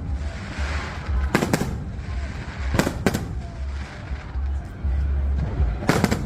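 Fireworks shells bursting: a sharp bang about a second and a half in, two in quick succession near three seconds, and another near the end, over a steady low rumble.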